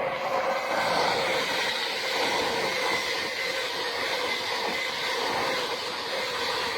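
Class 221 Voyager diesel multiple unit running through the station: a loud, steady rumble of underfloor diesel engines and wheels on rail, with a faint held tone.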